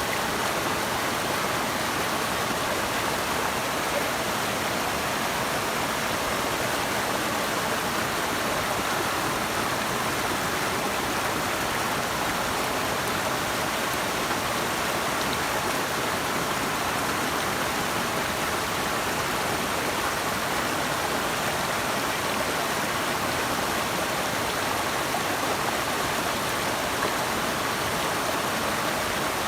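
Steady rush of flowing water, an even unbroken noise with no distinct splashes or changes.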